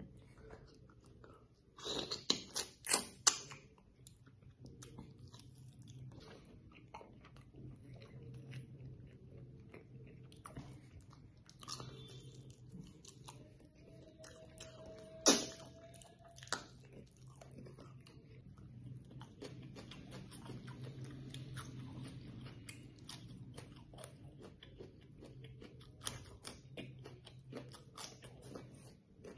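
Close-up chewing and biting of mutton karahi and roti, with small wet mouth clicks throughout. A cluster of loud sharp clicks comes about two to three seconds in, and one loud sharp click comes about halfway.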